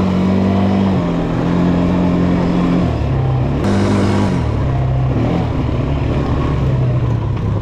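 ATV engine running under changing throttle while being ridden, its pitch stepping up and down several times as the rider works the throttle over a bumpy trail. A sharp knock comes about three and a half seconds in.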